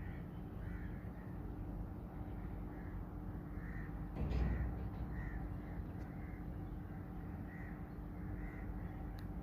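Crows cawing repeatedly, short calls coming every second or so, over a steady low outdoor rumble. About four seconds in there is a brief louder low rumble.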